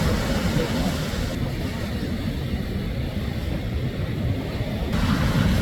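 Shorebreak waves on a beach: a steady rushing rumble of surf, strongest in the low end.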